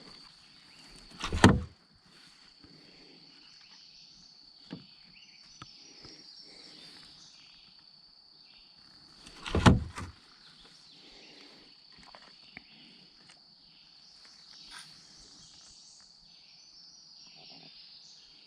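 Two short, loud thumps about eight seconds apart, with a few lighter clicks between, from a bass being handled on a measuring board in a kayak. Under them runs a steady, high insect buzz.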